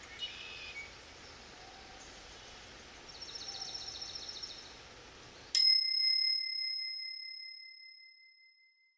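Forest ambience with birds calling, including a rapid trill about three seconds in. About five and a half seconds in, a single bright timer chime strikes and rings down over about three seconds, marking the end of an interval, as the forest sound cuts off.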